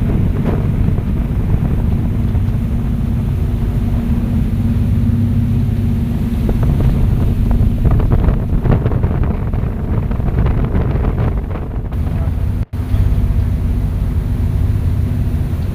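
Fast passenger boat's engines droning steadily, with wind buffeting the microphone; the sound drops out for an instant near the end.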